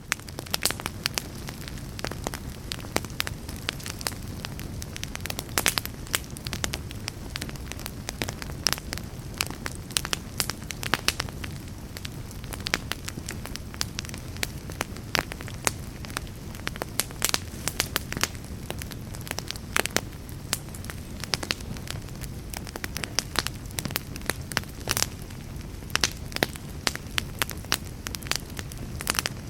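Fire crackling in a fireplace: a steady low rumble of flames with frequent sharp, irregular pops and snaps.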